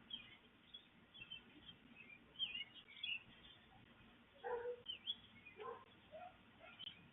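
Wild birds chirping, with many faint, short, high chirps throughout and two louder, lower calls a little past the middle.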